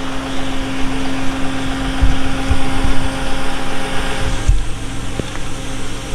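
A vehicle engine running steadily with a constant hum, with a few low thumps about two to three seconds in and again around four and a half seconds.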